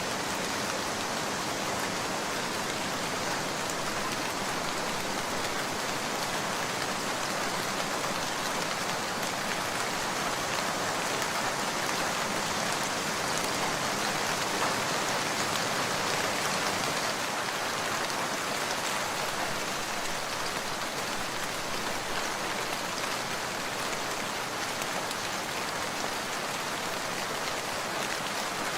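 Steady, dense rainfall, swelling slightly louder about halfway through.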